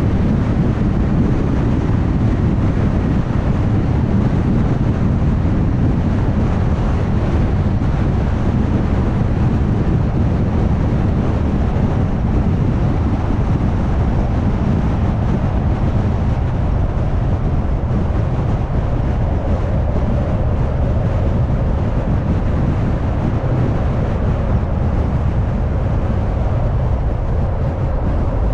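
A car driving on a sealed road: steady road, tyre and engine noise with wind rush, heaviest in the low rumble. The upper hiss eases a little past the middle.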